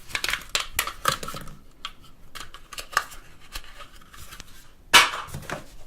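Earphones being taken out of their plastic packaging in the phone's box: a run of small plastic clicks and crinkles, with a louder rustle about five seconds in.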